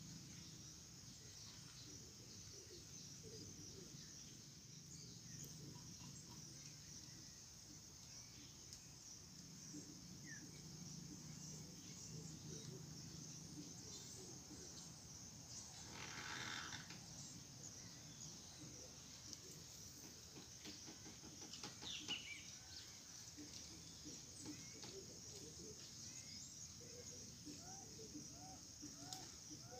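Faint outdoor ambience in scrub woodland: a steady high insect drone with scattered bird chirps. A brief rush of noise about halfway through, and a run of quick repeated chirps near the end.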